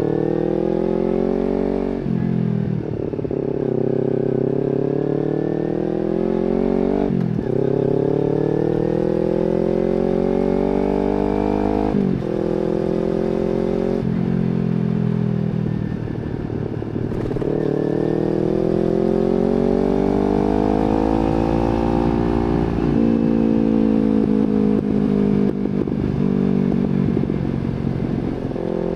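Kawasaki Z250 parallel-twin with an aftermarket slip-on exhaust, ridden under acceleration: the exhaust note climbs in pitch through each gear and drops sharply at several upshifts.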